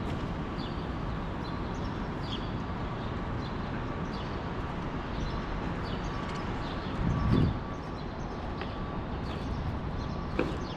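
Sparrows chirping in short, scattered notes over a steady background of city traffic noise, with a brief low rumble about seven seconds in.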